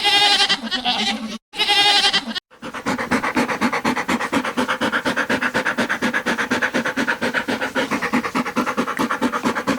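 Goat bleating twice, two wavering calls about a second each. These are followed by a long run of rapid, evenly repeated pulsed calls.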